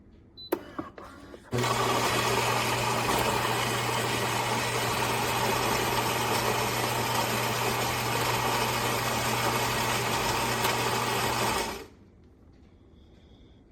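A few light clicks, then a Philips 3200 Series fully automatic coffee machine runs for about ten seconds: a loud, steady whirring buzz that stops abruptly.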